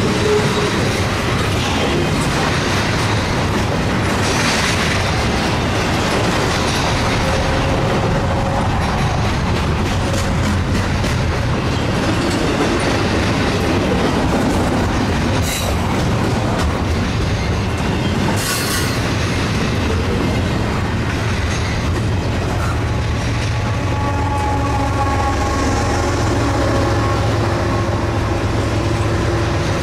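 Freight train cars rolling past close by, a steady loud rumble with the clickety-clack of wheels over the rail joints. In the later part, a faint wheel squeal rises over the rumble.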